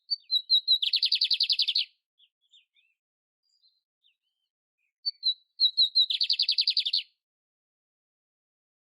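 Canário-império (a canary) singing two identical song phrases: each opens with a few short, high notes and runs into a rapid trill about a second long. The first phrase comes at the start and the second about five seconds in.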